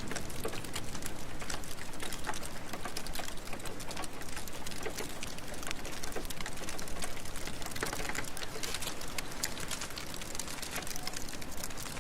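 Steady rain ambience with scattered sharp crackles from a wood fire in a fireplace.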